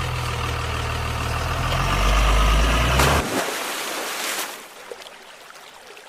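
A heavy engine running steadily with a deep, even hum. It swells about two seconds in, then cuts off abruptly about three seconds in. A hiss follows and fades away.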